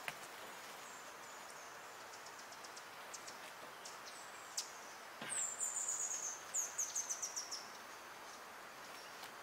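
A small bird calling in high-pitched chirps: a few faint quick notes, then past the middle a louder rapid series of short falling chirps lasting about two seconds. A couple of light clicks sound in between.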